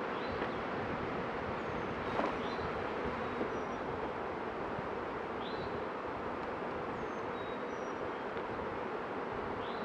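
Honeybees buzzing in a dense, steady hum around an opened hive whose frames are being worked, with a light knock about two seconds in.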